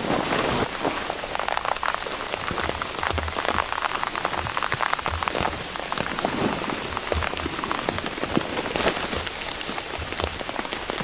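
Heavy rain falling steadily, with many individual drops striking a surface as dense, sharp ticks over a constant rush.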